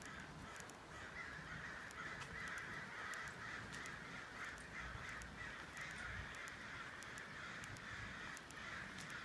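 A large flock of birds calling all at once: a dense, continuous din of overlapping crow-like caws and chatter.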